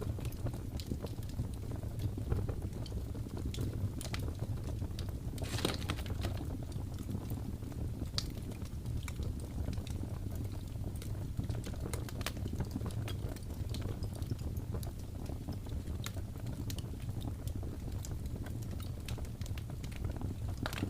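Wood fire crackling in a fireplace: irregular sharp pops and snaps, a cluster of louder pops about five and a half seconds in, over a steady low rumble.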